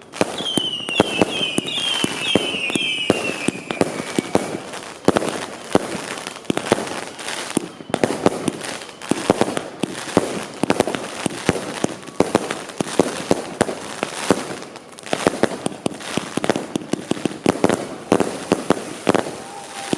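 Fireworks going off continuously: rapid bangs and crackling pops one after another, with a run of about five short falling whistles in the first few seconds.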